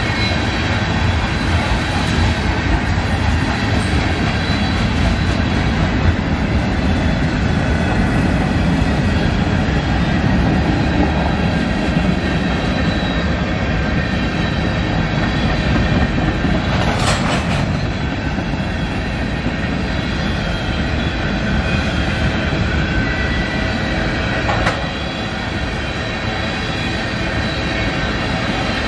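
Freight cars of a manifest train, tank cars and covered hoppers, rolling past close by: a loud, steady rumble of steel wheels on rail with a faint high steady wheel squeal. A short sharp noise stands out about seventeen seconds in, and a smaller one comes near the end.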